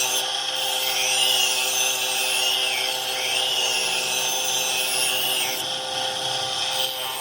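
Repeated rubbing or scraping strokes by hand, about one a second, over a steady hum.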